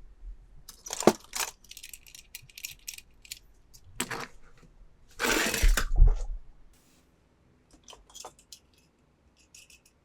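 Small hard plastic toy pieces being handled, with irregular clicks and clinks and a longer, louder scraping rustle about five seconds in.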